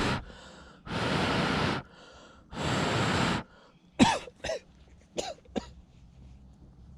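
A man blowing hard on smouldering embers in long, even breaths, two full blows after the end of another, then coughing sharply four times in quick succession, as if on the smoke.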